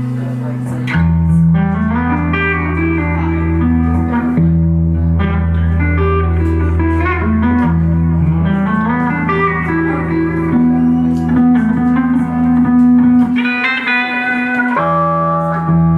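Live band playing an instrumental passage: a guitar picks out a melody over sustained low bass notes, with a chord change about a second in and the bass dropping out briefly near the end.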